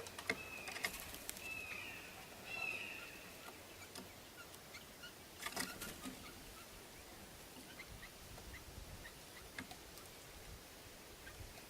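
Blue jays calling at a feeder: a few short, falling calls in the first few seconds, mixed with several sharp taps, then faint scattered chirps.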